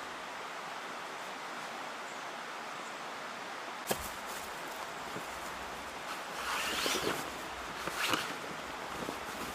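A steady hiss of outdoor background noise, with one sharp knock about four seconds in. Irregular rustling and crunching follow in the second half, loudest near the end.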